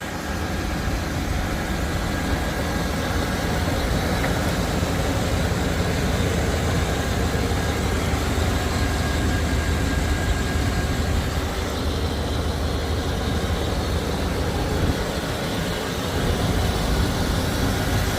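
1994 Chevrolet Blazer's 5.7-litre 350 V8 running steadily, with an even rush of vehicle noise.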